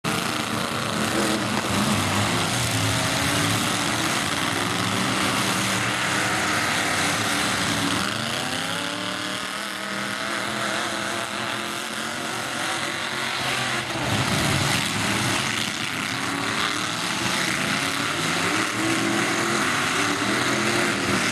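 Demolition derby truck engines running hard and revving, several at once, their pitch rising and falling.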